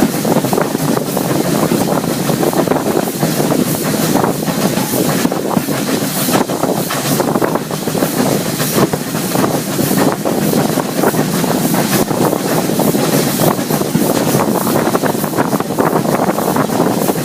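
Heritage railway train running at speed, a steady rumble of wheels on the track mixed with wind buffeting the microphone.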